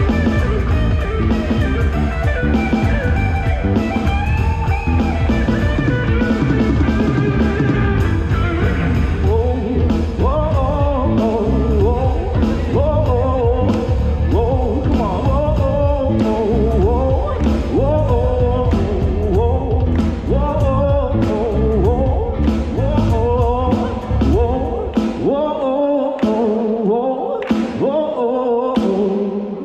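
Live band of electric guitar, bass and drum kit playing the closing section of a rock song, with pitch-bending guitar or wordless vocal lines over the top from about nine seconds in. About 25 seconds in the bass drops out, leaving the guitar line and drum hits to finish the song.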